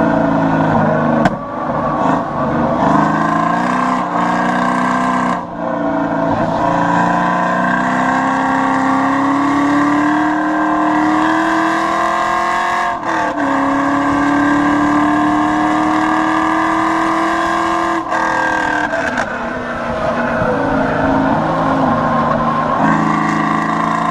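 LS1 V8 in a Pontiac Firebird at full throttle on a race track, its note climbing steadily through each gear and dropping sharply at the shifts, about three times.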